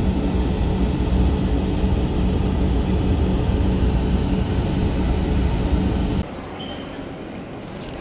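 Steady vehicle running noise: a loud, even rumble with a steady hum that cuts off abruptly about six seconds in, leaving a quieter background.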